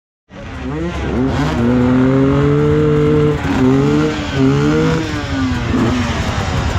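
Enduro motorcycle engine revving: the pitch climbs and holds, dips about three and a half seconds in, rises again, then falls away.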